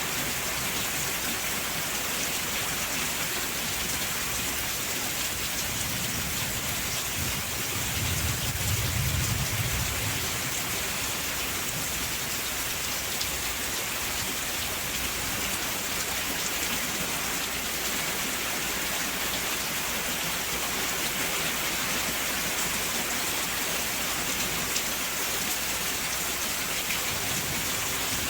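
Steady rain falling, a constant hiss of drops, with a low rumble of distant thunder swelling and fading about a quarter of the way in.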